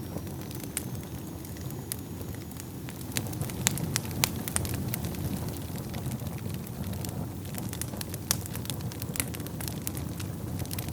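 Wood fire burning in a fireplace: a steady low rumble of flames with frequent sharp crackles and pops, busiest and loudest a few seconds in.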